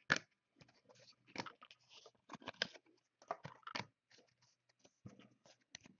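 Trading cards being handled and flipped through by hand: an irregular run of small clicks, slides and crinkles.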